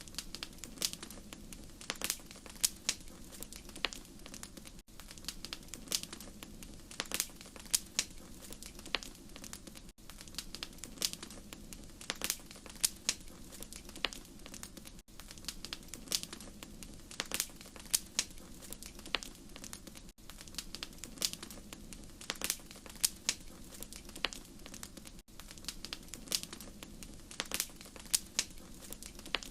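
Fire crackling in a fireplace: irregular sharp pops and snaps over a soft steady hiss, with a brief dropout about every five seconds.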